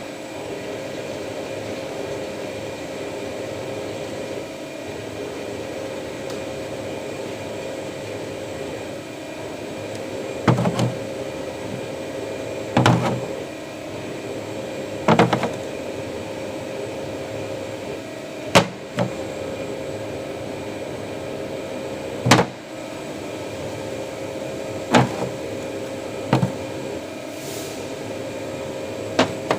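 CNC machine running with a steady hum and several held whining tones. From about ten seconds in, sharp clunks come every two to four seconds, about nine in all.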